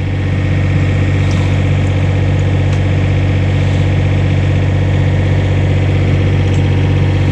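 Excavator engine running steadily at an even speed.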